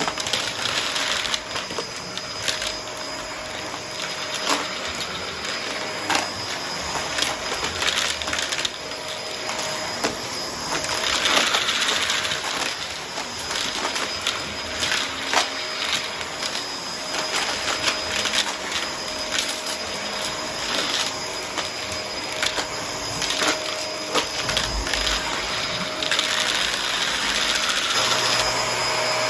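Vacuum cleaner running with a steady whine while sucking up coins, which clatter through the nozzle and hose as rapid, irregular clicks.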